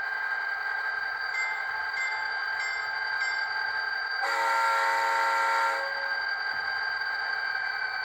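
HO-scale Bowser SD40-2W's onboard sound speaker playing a steady diesel engine hum, with four short evenly spaced tones, then a horn blast of about a second and a half, the loudest part, starting about four seconds in.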